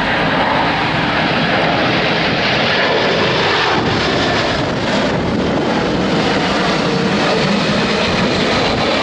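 Twin jet engines of a landing Boeing 767-300ER freighter: a loud, steady roar, with a tone in it falling in pitch about two to three seconds in as the aircraft passes.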